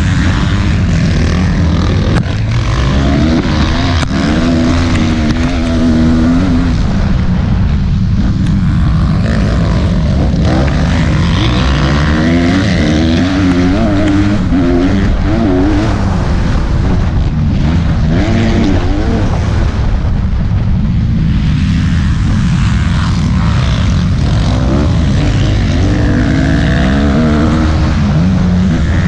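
Motocross bike engine running hard, its pitch climbing and dropping over and over as it accelerates and backs off, over a constant low rumble.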